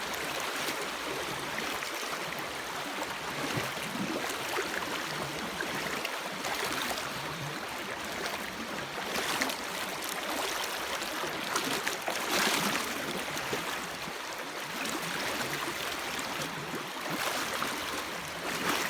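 River water rushing over stones, steady throughout, with louder splashing swells as someone wades through it, the strongest about two thirds of the way in.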